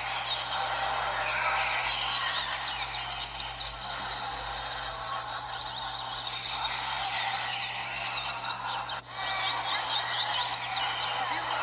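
A chorus of many double-collared seedeaters (coleiros) singing at once, as in a competition roda, their fast chirping phrases overlapping densely. A faint steady low hum lies underneath, and the sound briefly cuts out about nine seconds in.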